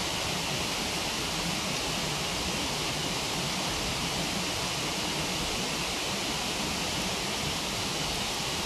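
Waterfall rushing steadily, an even hiss of falling water with no break.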